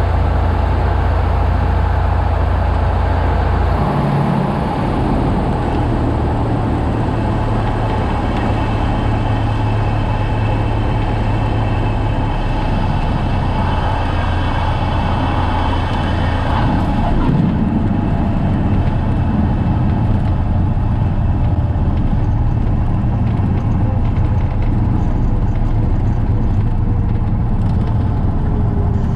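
Cessna 172's four-cylinder piston engine and propeller running steadily in flight, with a change in the engine note about four seconds in and again about seventeen seconds in.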